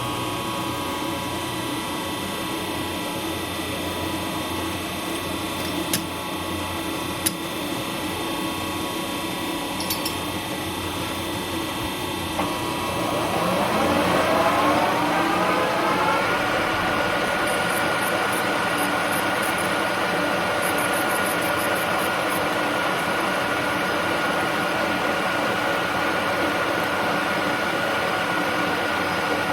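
Machine tool running while cutting nylon spacers, with a few sharp clicks in the first half. About 13 seconds in, its motor whine rises in pitch and settles into a louder, higher steady run as the spindle speeds up.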